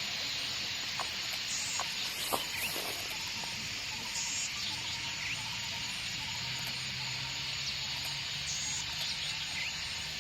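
Forest ambience: a steady chorus of insects, with short, high chirps repeating every few seconds. A faint low hum comes in about halfway through.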